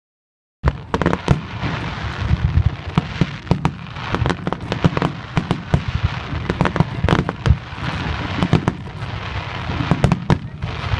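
Fireworks display: aerial shells bursting in a rapid, continuous barrage of sharp bangs over a steady rumble. It starts suddenly about half a second in.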